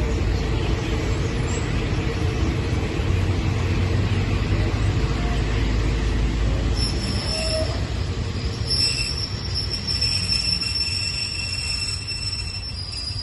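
A diesel-hauled train rolling slowly at the platform, its low rumble filling the first half. About halfway through, high-pitched steady wheel squeal sets in, several shrill tones held together.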